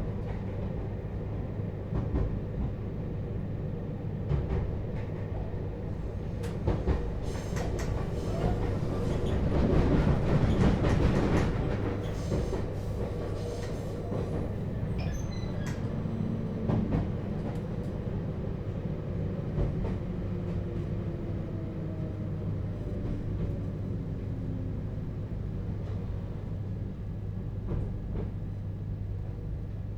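Interior running sound of a JR Hokkaido 721-series EMU motor car with a Toshiba GTO inverter: wheel and track rumble with clicks over rail joints, loudest around ten seconds in. Later the motor tone falls in pitch as the train slows for the station.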